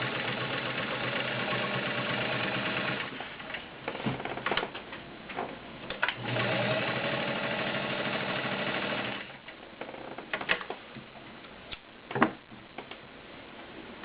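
Kenmore Model 65 sewing machine, an all-metal machine with a 1.2-amp motor, stitching through a thick stack of cotton layers. It runs steadily in two bursts of about three seconds each, with a pause of scattered clicks between them. After the second burst stops there are a few sharp clicks and knocks of handling at the machine.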